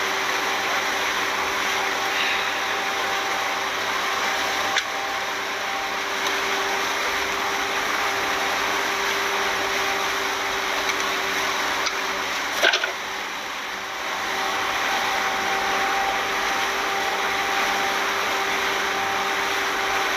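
Speedboat engine running steadily under a constant hiss of wind and water, with a faint hum. There is a light click about five seconds in and a sharper knock near thirteen seconds.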